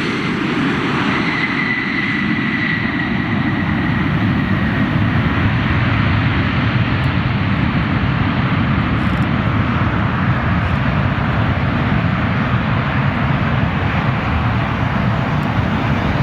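Airliner engines running with a steady, loud rumble and a faint high whine that dips slightly in pitch during the first few seconds.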